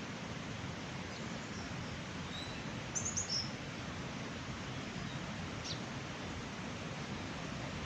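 A small bird chirping over a steady outdoor hiss: a quick run of high chirps about three seconds in, and one short chirp near six seconds.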